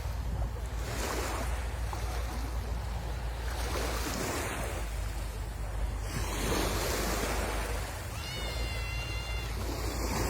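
Sea waves washing onto the shore, swelling and ebbing every couple of seconds, with wind rumbling on the microphone. A brief high, steady tone sounds about eight seconds in.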